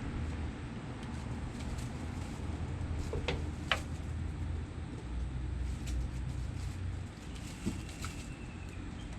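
Kittens playing, with light scattered patter and two short sharp squeaks a few tenths of a second apart, over a steady low hum.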